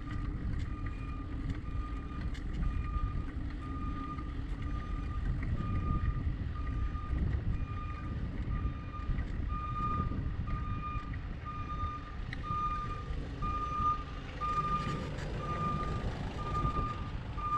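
A vehicle's reversing alarm beeping steadily at one pitch, about twice a second, with wind rumbling on the microphone underneath.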